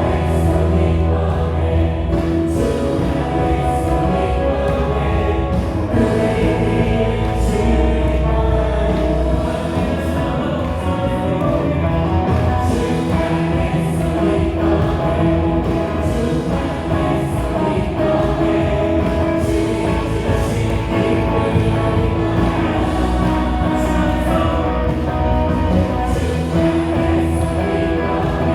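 Live contemporary worship music: a group of singers with drums, electric guitar, bass guitar and keyboard playing a praise song.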